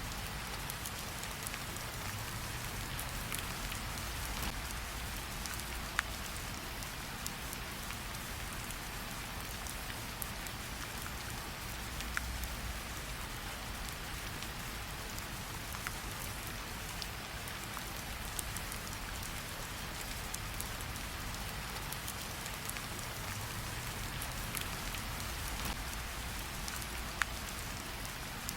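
Steady rain falling, mixed with a crackling campfire; a few sharper pops stand out, about three over the stretch.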